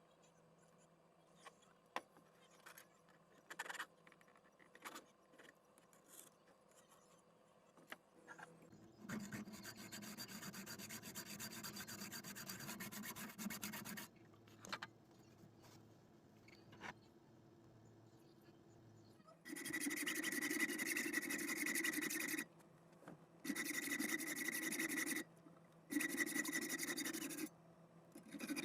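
Metalworking sounds: scattered light taps, then a steady scraping run of about five seconds, then four bursts of a tool working metal, each lasting a couple of seconds.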